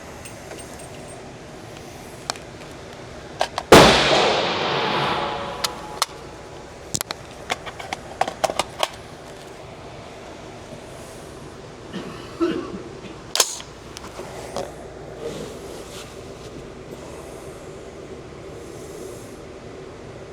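A single 300 Blackout rifle shot about four seconds in, with a ringing echo trailing off over a second or two. It is followed by a run of light clicks and knocks, and one more short, sharp knock later on.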